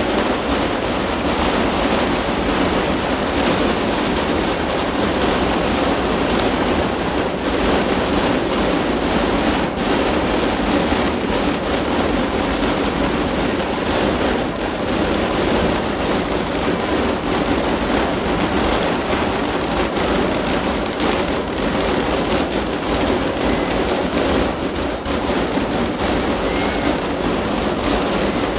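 A dense, continuous barrage of daylight fireworks: countless small bangs and crackles run together into one steady, loud noise that never lets up.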